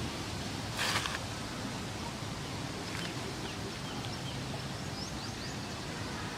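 Steady outdoor background noise with a brief rustling burst about a second in, and faint high bird chirps in the second half.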